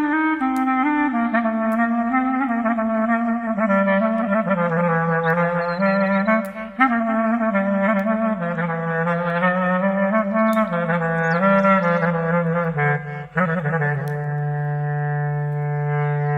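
Slow clarinet melody sliding between notes, then settling on a long held low note a little past the middle.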